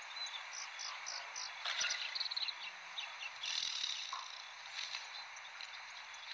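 Small birds chirping in short quick runs of high notes over a steady hiss.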